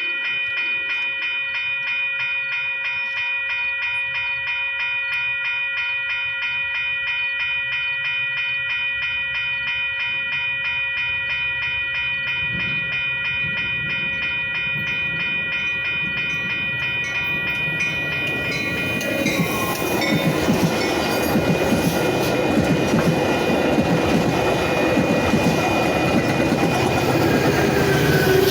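A warning bell ringing rapidly and steadily. About two-thirds of the way in, a Metra commuter train arrives and passes, with a loud rush of wheel and rail noise and clatter.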